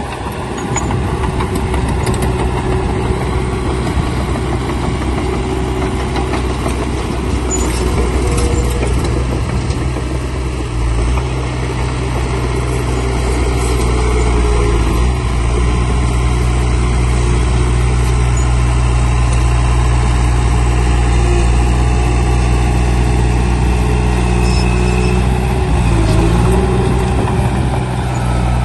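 Diesel engine of heavy earthmoving machinery running steadily, growing louder and deeper from about eleven seconds in.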